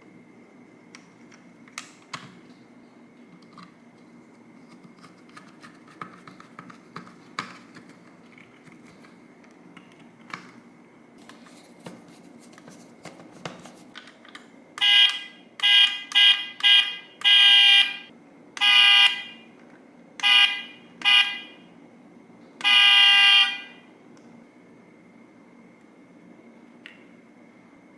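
Car horn honked in about eight blasts of uneven length, some short taps and some held for most of a second, starting about halfway through. Before that there are only faint clicks and taps.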